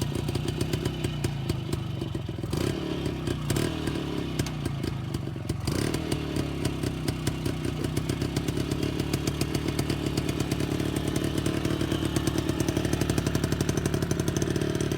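Motorcycle engine running with a rapid, even firing beat, getting somewhat louder in the second half.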